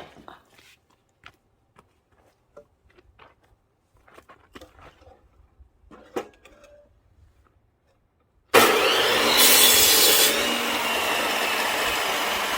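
Scattered light knocks and clatter of wood being handled, then a power saw starts abruptly, about two thirds of the way in, and runs loudly and continuously through a log, the cut turning harsher twice as the blade bites.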